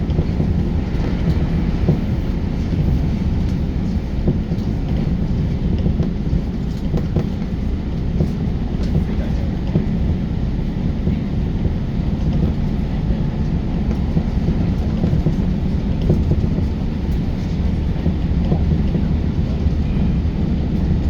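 Electric commuter train running along the line, heard from inside the car: a steady low rumble of wheels on rail, with a few faint clicks.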